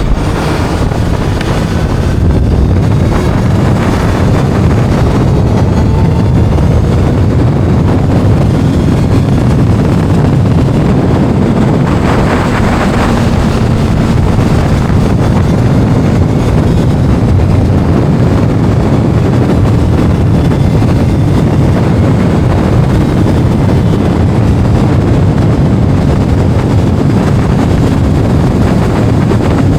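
Loud wind noise on the microphone of a moving Kawasaki inline-four sport motorcycle, with the engine's pitch faintly rising and falling beneath the wind.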